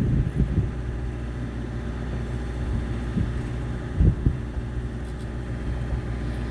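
Steady low hum of a fishing boat's engine running, with a brief dull knock about four seconds in.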